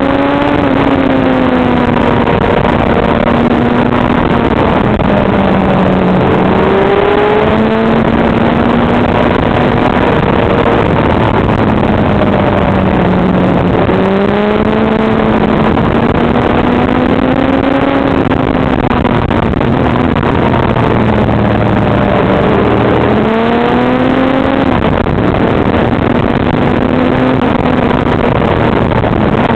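Motorcycle engine running at road speed, heard from on board, its pitch rising and falling with the throttle through the bends, with a few abrupt jumps in pitch, over a steady rush of wind noise.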